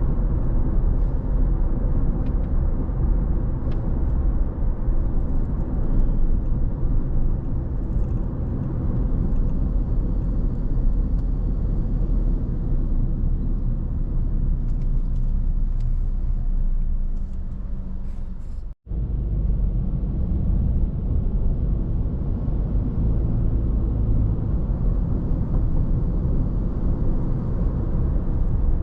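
Steady low rumble of a car driving on the road, tyre and engine noise. The sound cuts out completely for a moment about two-thirds of the way through.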